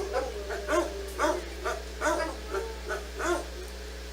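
A dog barking repeatedly, about two short barks a second, with a whine running beneath the barks. A steady low hum sits under it all.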